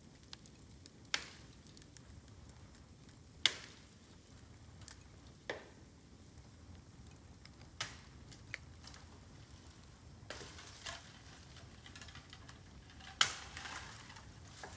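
Bamboo burning in a campfire: a faint steady hiss of flames broken by sharp pops every couple of seconds, with a spell of denser crackling starting about ten seconds in and the loudest pop near the end.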